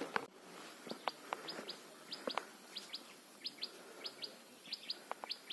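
A small bird chirping repeatedly, faint short high notes mostly in pairs, a little more than once a second.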